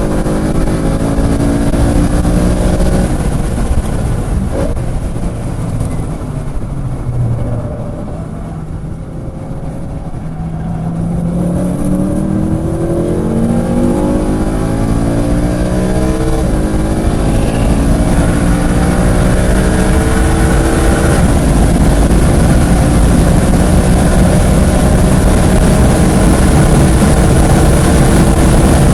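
A track car's engine heard on board at speed, over constant wind and road noise. The revs fall for the first several seconds and the level dips, then from about ten seconds in the engine pulls with a steadily rising pitch.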